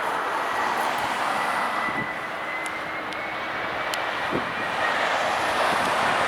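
Jet airliner's engines, a broad rushing noise with a thin high whine on top, slowly growing louder.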